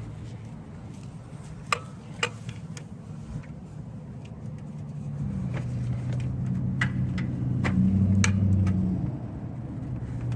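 A car engine running, its hum growing louder in the second half and easing off near the end, with a few sharp clinks of hand tools.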